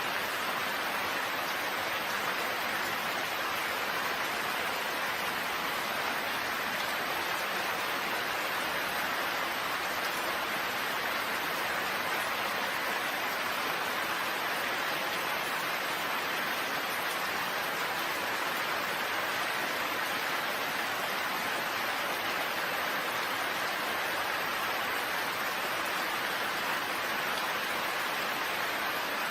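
Steady rain falling, an even, unbroken wash of noise with no single drops, thunder or other sounds standing out.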